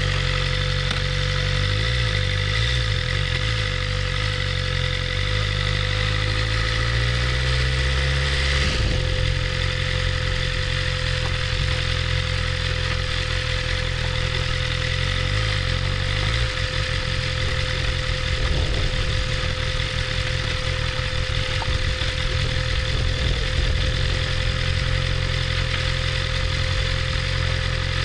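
BMW S1000RR's inline-four engine running steadily at low revs. Its note shifts slightly in the first seconds and changes character about nine seconds in and again about sixteen seconds in.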